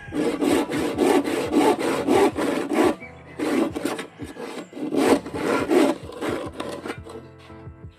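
Hand saw cutting through bamboo in quick back-and-forth strokes, about three a second, in three runs separated by short pauses.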